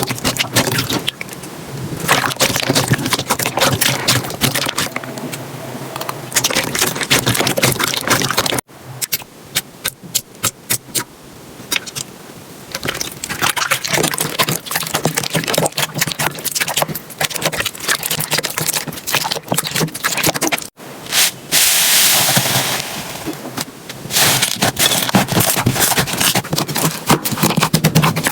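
Slime being squeezed and poked by hand, making dense, irregular crackling and popping clicks with stretches of squishy, scraping hiss. It is heard in three clips, with abrupt changes about a third and two thirds of the way through.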